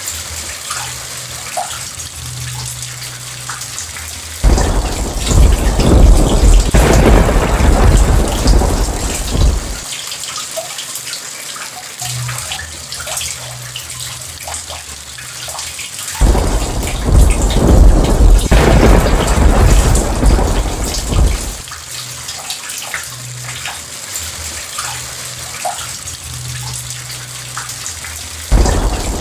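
Steady heavy rain with scattered drips, and thunder rumbling loudly three times: from about four seconds in for several seconds, again past the middle, and once more starting near the end. Each rumble starts and stops abruptly.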